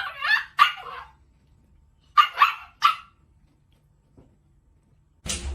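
Dog barking in short sharp barks: a quick run of barks at the start, a pause, then three more about two seconds in. Near the end a different, steady noisy sound cuts in.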